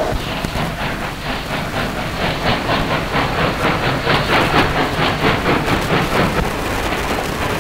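Train wheels clicking over rail joints in a quick, steady clickety-clack rhythm, over a low rumble of the carriages rolling.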